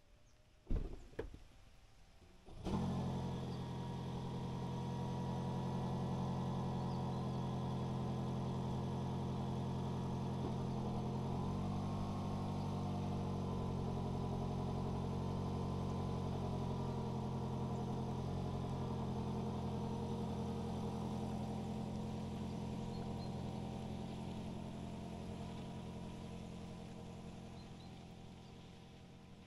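Two sharp clicks, then a car engine starts abruptly and runs steadily, its sound slowly fading over the last few seconds.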